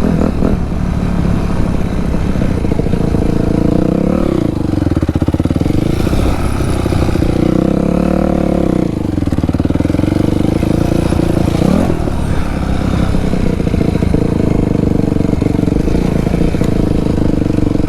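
Dirt bike engine running hard under riding, its revs dropping and climbing again several times as the throttle is rolled off and opened.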